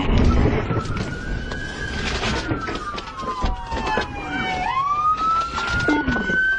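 Police car siren on a slow wail: the pitch falls for a couple of seconds, then sweeps back up about two-thirds of the way in. Vehicle rumble and road noise run underneath, heaviest at the start.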